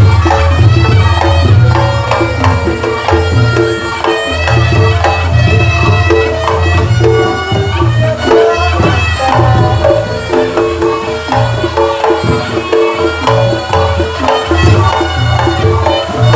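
Reog Ponorogo gamelan accompaniment played loud: drums beating under sustained gong-like tones and a high melodic line.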